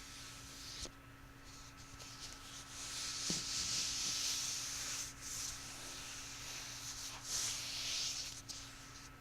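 Close-up rubbing on an object's surface, in slow swells of hiss that are loudest about three seconds in and again around seven seconds, with a couple of small clicks.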